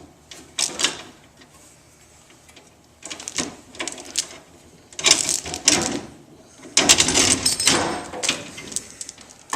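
A steel tie-down chain rattling and clinking in several bursts as it is wrapped around a car's rear leaf spring, the links clattering against each other and the spring.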